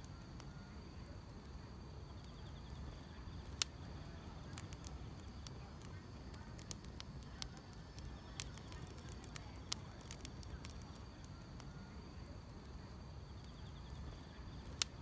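Wood fire crackling with scattered sharp pops, the loudest about three and a half seconds in and another near the end, over a steady low rumble, while grass insects chirp faintly and steadily in the background.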